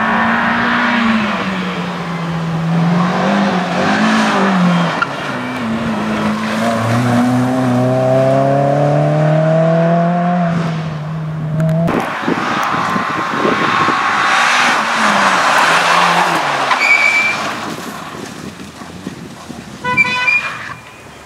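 Renault Clio hatchback driven hard through a slalom course: the engine revs up and drops back again and again as the driver shifts and brakes for the cones, with tyre noise on the tarmac. Near the end come a couple of short high tones.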